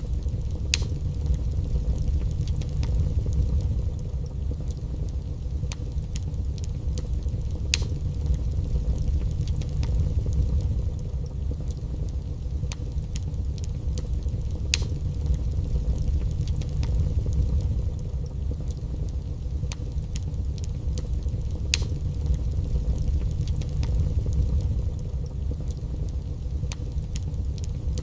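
Wood fire burning in a fireplace: a steady low roar of flames with sharp crackles and pops at irregular intervals.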